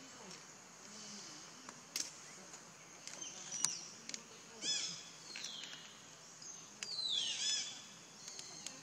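Birds chirping in short bursts of quick, arched high notes. The busiest stretch is from about four and a half to seven and a half seconds in, with one falling whistle. A few sharp clicks come about two and three and a half seconds in, over low background noise.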